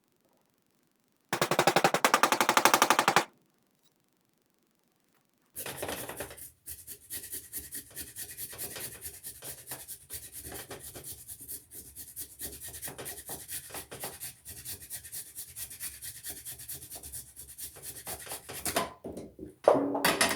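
Carrot being grated by hand, rapid scraping strokes of carrot across a grater. About a second in there is a loud, fast run of strokes lasting about two seconds. After a pause comes a longer stretch of lighter, uneven strokes, ending with a sharp knock near the end.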